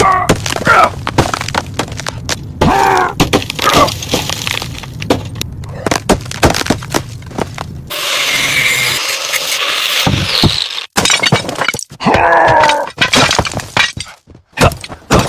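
A dense, loud run of cracks, knocks and clatters, like material being broken or struck, with a few short squealing or voice-like sounds among them.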